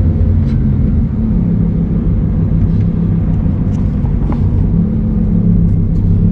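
Car engine running steadily at low revs, a deep even rumble that neither rises nor falls.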